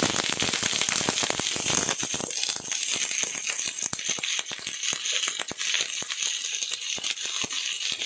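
Eggplant pieces sizzling in hot oil in a frying pan, with a dense crackling spatter that is heaviest in the first two seconds or so as the pieces go in, then settles into a steady sizzle.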